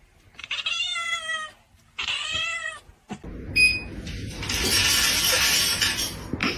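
A cat meows twice, two drawn-out calls that rise and fall. After a short gap, about two seconds of loud hissing noise follow.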